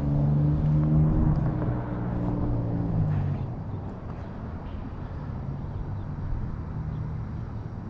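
A vehicle engine running at a steady pitch, fading out about three seconds in and leaving steady outdoor background noise.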